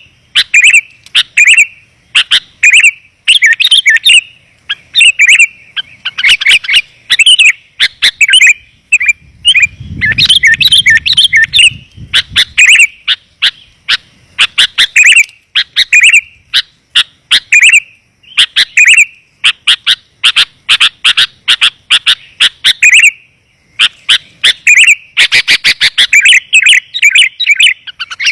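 Sooty-headed bulbul calls used as a lure: quick, clear chirps in short rapid bursts, repeated over and over with brief pauses. A low rumble sits under the calls for a few seconds about ten seconds in.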